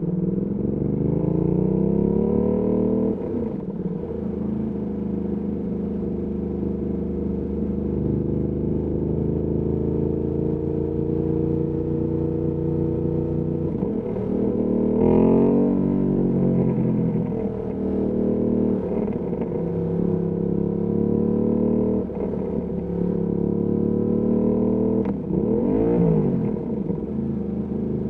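Ducati Panigale V2S twin-cylinder engine through a Termignoni exhaust, ridden in traffic. It climbs in pitch over the first few seconds, then settles to a steadier run. Sharp rises and falls in revs come around the middle and again near the end.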